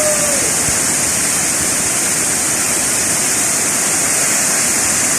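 Pico del Gallo waterfall rushing: a loud, steady hiss of falling water with no change throughout.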